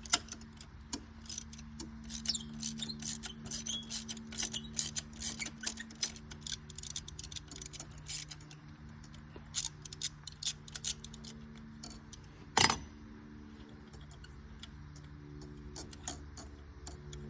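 Ratchet wrench clicking in quick runs of strokes as a spark plug socket is worked in the engine's plug well, with one short loud burst of noise about two-thirds in. Faint steady hum underneath.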